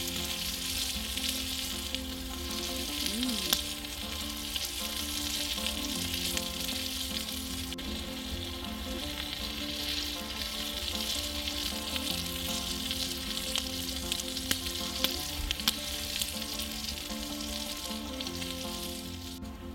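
Burger patties and meat sizzling on a hot stone over a campfire: a steady frying hiss with scattered sharp crackles and pops.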